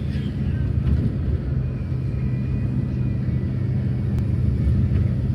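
Bus engine running with a steady low drone, heard from inside the moving bus.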